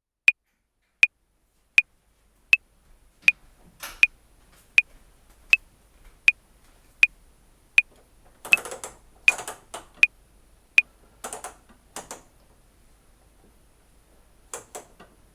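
Metronome beeping at 80 beats per minute: a short high click on every beat, which stops about eleven seconds in. Irregular rustling knocks sound underneath from about three seconds in.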